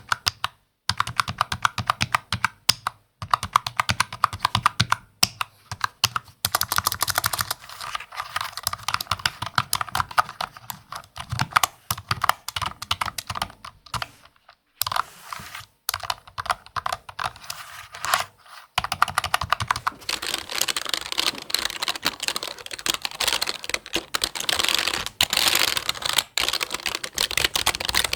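Fast, continuous typing on a computer keyboard, a dense run of key clicks broken by a few short pauses. About two-thirds of the way through, the keystrokes turn brighter and crisper, with less low thud.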